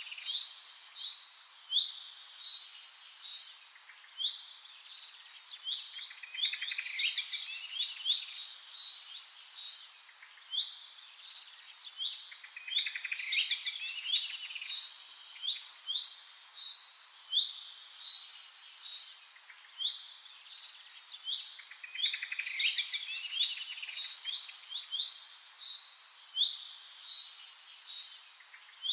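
Birds singing: phrases of quick chirps and trills a few seconds long, with short quieter gaps between them.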